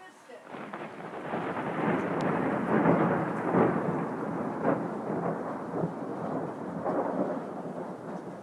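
A long roll of thunder that builds over a couple of seconds, rumbles with several louder peaks, then slowly fades.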